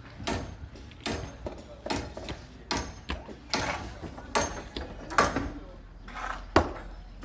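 Steady hand hammering: sharp blows landing about one every 0.8 seconds.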